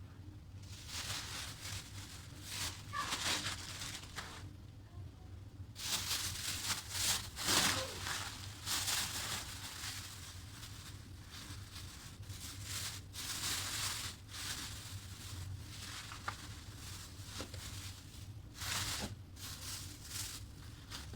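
Plastic bags and food packaging rustling and crinkling as items are handled and unpacked, in irregular stretches with a short lull about five seconds in.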